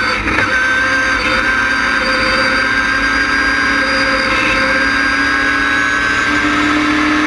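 LS6 V8 engine of an ASA-style stock car running at a steady, moderate speed, with a high, steady whine over it; the engine note rises a little about six seconds in.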